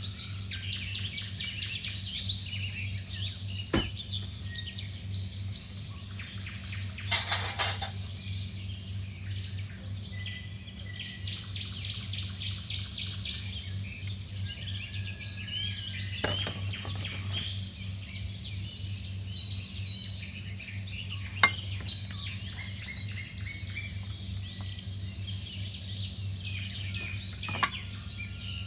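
Small birds chirping busily over a steady low hum, with a few sharp clinks of kitchenware and a short rattle about seven seconds in.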